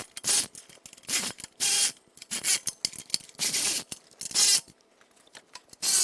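Tools working on exhaust hanger bolts, making short rasping, scraping strokes on metal that come in uneven bursts, about eight to ten of them.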